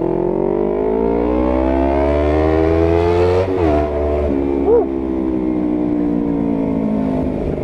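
Honda CBR250RR parallel-twin with an R9 GP series full-system aftermarket exhaust, in Sport riding mode, accelerating under throttle. The exhaust note climbs steadily for about three and a half seconds, then drops sharply. A short blip follows about a second later, and then the note slowly falls as the bike eases off.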